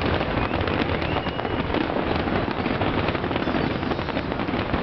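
Aerial firework shells bursting in a dense, unbroken barrage of rapid bangs and crackles: the grand-finale volley of a large fireworks display.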